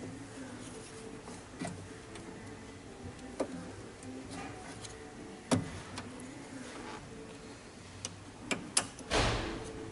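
Scattered, irregular clicks and knocks of hand tools and car door parts being handled, over a steady low hum, with a short rustling rush near the end.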